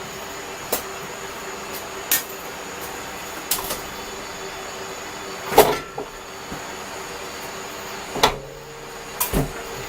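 About six scattered sharp knocks and clanks, like tools and metal parts being handled during work on a car, the loudest a little past midway, over a steady hum.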